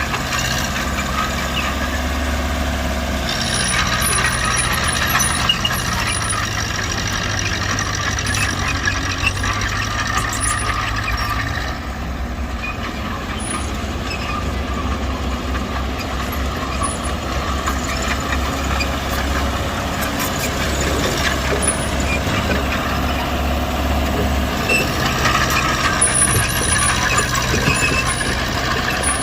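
Heavy diesel earthmoving machinery running steadily, with the engine working harder and louder in two stretches, the first a few seconds in and the second near the end.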